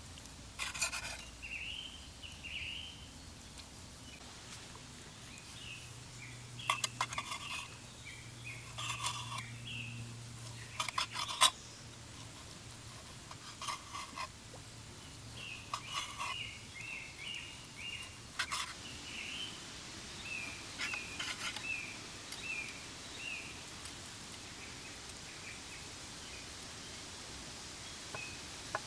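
Small birds chirping in short repeated notes, with sharp clicks or knocks every few seconds, the loudest about eleven seconds in.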